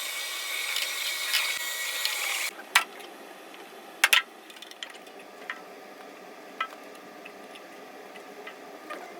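Counter-rotating brush carpet machine running with a steady whirring hiss that cuts off after about two and a half seconds, followed by a few sharp clicks and light plastic handling noises.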